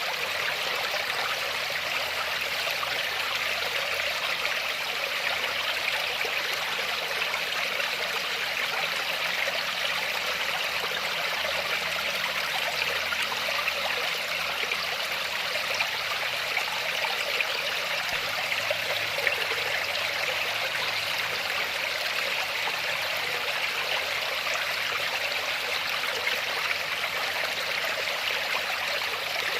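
Waterfall: a steady, even rush of falling and splashing water with little deep rumble.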